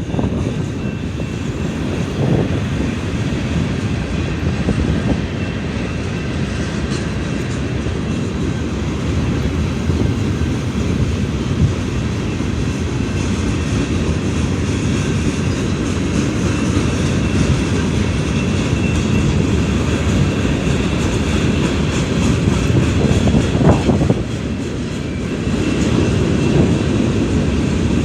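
Union Pacific manifest freight train rolling past, a steady loud noise of steel wheels on rail with some clickety-clack.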